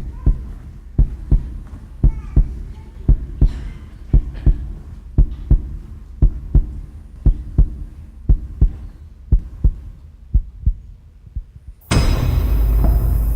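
A heartbeat sound effect: low 'lub-dub' double thumps about once a second, slowly fading. Near the end it cuts off and a loud burst of music with a deep rumble comes in suddenly.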